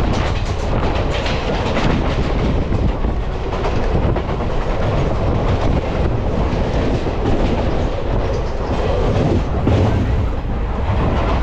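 Indian Railways passenger coach running along the line, heard from its open window: a steady loud rumble of wheels on rail with repeated clacks as the wheels cross rail joints.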